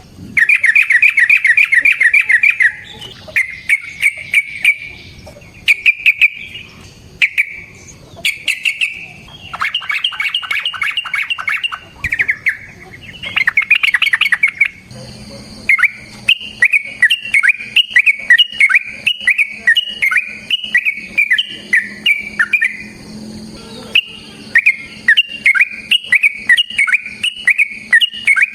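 Yellow-vented bulbul (trucukan) singing. It starts with loud rapid chattering trills, then from about halfway sings a long unbroken run of quick bubbling notes, several a second.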